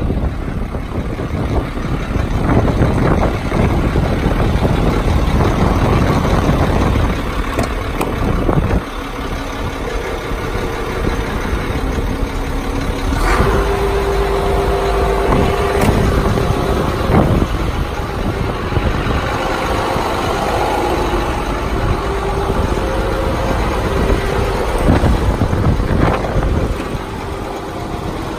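A 2003 International 7400 bucket truck's engine running steadily, with a few sharp clicks and knocks. About halfway through, steady whining tones come in and go on for several seconds.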